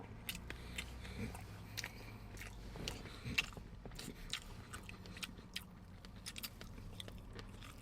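A person chewing a bite of lechon, Filipino roast pork belly, close to the microphone: irregular small clicks and crunches of teeth and mouth on the meat and skin.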